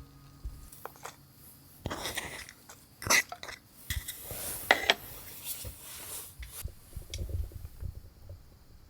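Scattered clinks, taps and rustles of cookware and utensils being handled, with the loudest knocks about three and five seconds in.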